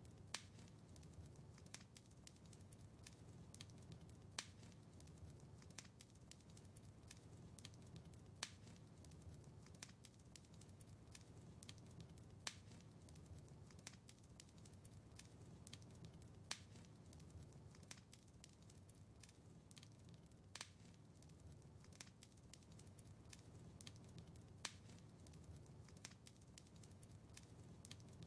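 Wood fire crackling quietly: sharp pops and snaps over a low steady rumble, with a louder pop about every four seconds.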